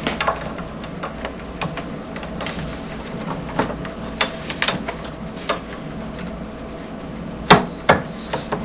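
Irregular light clicks and taps of small press parts being handled while the Z-bar is fitted into the case slider of a Lee Pro 1000 reloading press's case feeder, with two louder knocks near the end.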